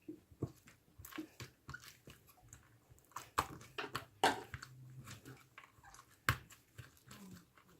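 Jelly slime with pearl beads being squeezed and pressed by hand, giving irregular squishy clicks and crackles, with a few louder pops about 3.5, 4.3 and 6.3 seconds in.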